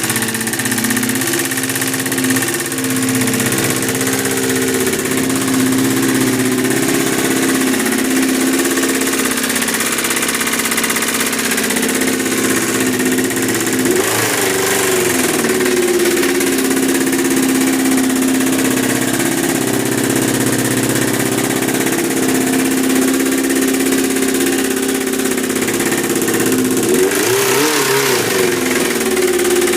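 Honda CBR600F2's carbureted inline-four engine idling steadily, blipped twice with a quick rise and fall in revs, once about halfway through and once near the end. The carburettor is dirty and the owner says it needs cleaning for the bike to run better.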